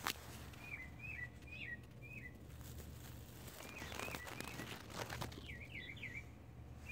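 A bird chirping in short, quick up-and-down notes: a run of about four spaced chirps, a few more midway, and a fast run of three near the end, with a few faint knocks between them.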